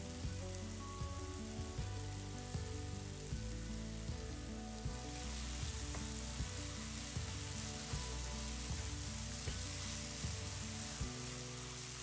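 Diced apples sizzling in butter in a frying pan as they are stirred, under background music with a steady beat. The sizzle grows brighter about five seconds in, around when brown sugar goes into the pan.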